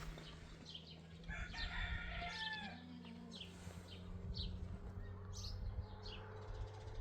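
A rooster crows once, one call of about two seconds. Short high chirps repeat around it over a steady low hum.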